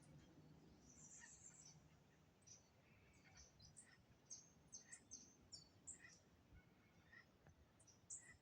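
Faint birdsong: several birds giving many short, high chirps and tweets, a dawn chorus over a soft background hiss.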